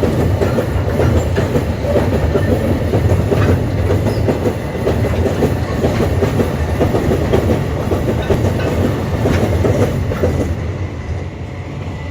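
Empty iron-ore train rolling past, its wagon wheels clattering over the rail joints with a steady rumble. The clatter thins out and fades about ten seconds in.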